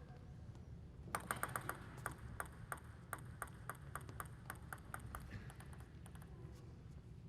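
Table tennis ball clicking: a quick cluster of light pings about a second in, then an even run of about three clicks a second for some four seconds.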